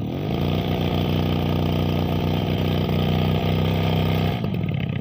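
Freshly serviced two-stroke brush cutter engine running on mixed fuel: it has just caught, its pitch rises briefly and then it runs steadily. About four and a half seconds in it stops and winds down.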